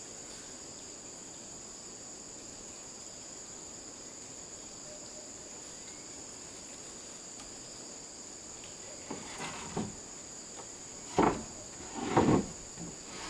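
Insects, such as crickets, trilling in a steady high-pitched chorus. In the last few seconds come a few knocks and thuds, the loudest two about a second apart near the end.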